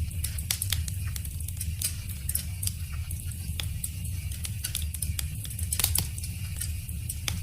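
Wood fire crackling: irregular sharp pops and snaps over a low steady rumble of the flames, with the loudest pops about six seconds in and near the end.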